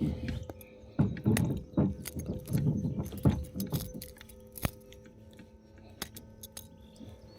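Knocking, rattling and clicking of handling and gear in a plastic kayak, busy for about the first four seconds and then down to scattered clicks, with a faint steady hum throughout.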